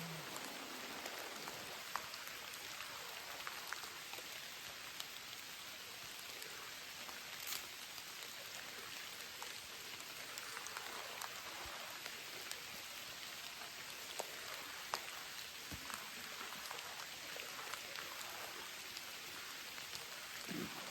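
Rain falling steadily, an even hiss with occasional louder drops ticking.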